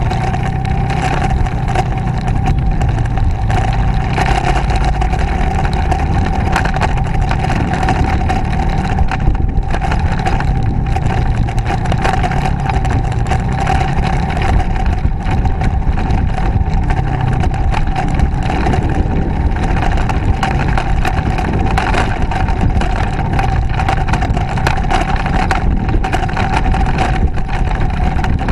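Motorcycle engine running steadily while riding, under a constant rushing noise with a steady whine.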